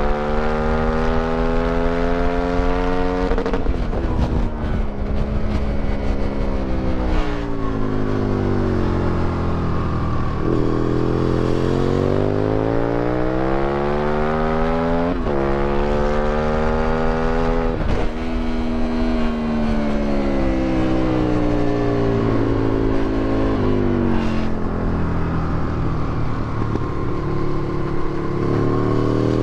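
2008 Aprilia Tuono 1000R's 60° V-twin breathing through an Akrapovic exhaust and velocity stacks, ridden hard on track. Its pitch climbs under acceleration with sudden drops at the upshifts, about 15 and 18 seconds in, and falls away for long stretches as the throttle is closed for corners.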